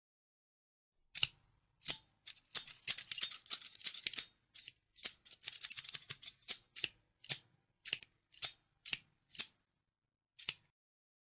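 Scissors snipping: after a second of silence, quick runs of cuts, then single snips about half a second apart, the last one near the end.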